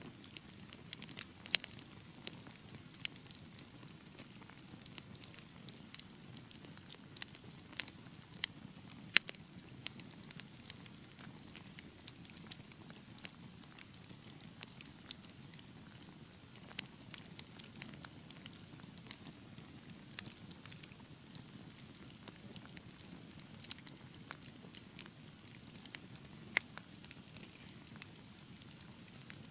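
Wood fire burning in a fireplace: a steady low rumble with irregular sharp crackles and pops, a few louder snaps standing out.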